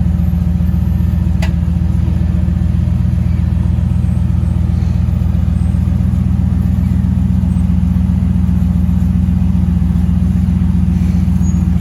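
Chevy K10 squarebody truggy's engine running steadily at low revs while it crawls the trail. A single sharp click comes about a second and a half in.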